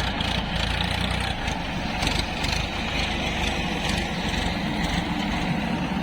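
Heavy diesel engine of a farm tractor or backhoe loader running steadily at low revs.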